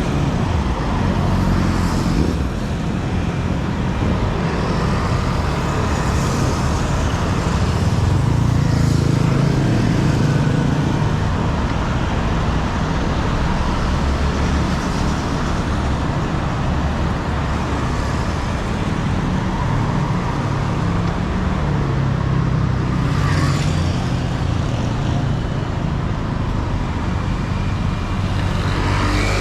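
Steady city road traffic: engines and tyres of motor vehicles running past, with a low rumble throughout and a brief sharp hiss about three-quarters of the way through.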